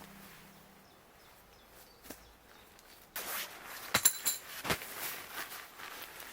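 Footsteps rustling through vegetation, starting about three seconds in, with a few sharp clicks or snaps among them.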